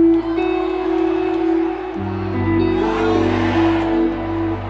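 Live rock band holding long sustained guitar and bass chords, shifting to a lower chord about two seconds in, with a festival crowd cheering and whooping underneath.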